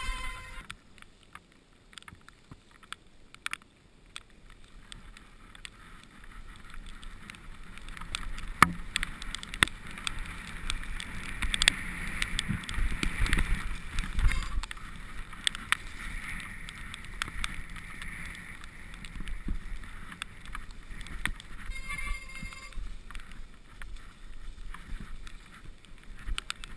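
Mountain bike riding down a wet, muddy trail: tyres hissing through mud and water, with frequent sharp knocks and rattles from the bike over bumps, busiest about halfway through.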